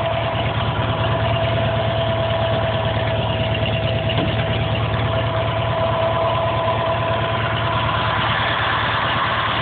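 Sears SS/16 garden tractor's Onan twin-cylinder engine idling steadily, shortly after a cold start.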